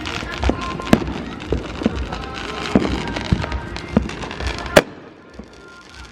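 Fireworks popping and banging, with two sharp, loud reports about a second in and just before five seconds. Background music with a steady beat runs beneath them and drops out near the end.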